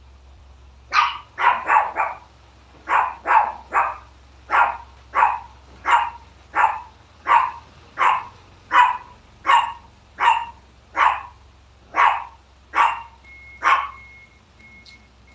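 A dog barking over and over, a long run of loud single barks roughly one or two a second. Near the end a high, evenly repeating beep starts up.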